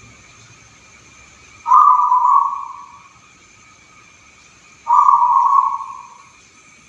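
Zebra dove (perkutut) singing: two coos about three seconds apart, each beginning sharply and trailing off, over a faint steady high-pitched hum.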